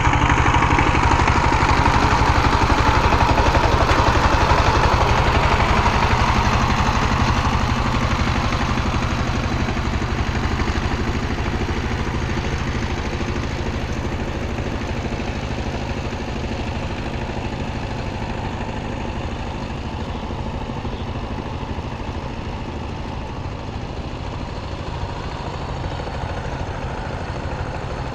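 Power tiller engine running steadily with a fast, even firing beat. It is loudest for the first several seconds, then settles a little lower and stays steady.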